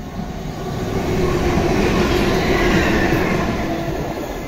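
Electric multiple-unit train passing close along the platform: motor hum and wheel-on-rail noise swell to a peak about two to three seconds in, with the hum dropping slightly in pitch, then ease off.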